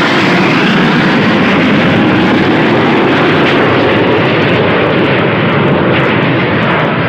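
BAE Hawk jet trainers flying past in formation: loud, steady jet noise. The high hiss fades over the last couple of seconds as the jets draw away.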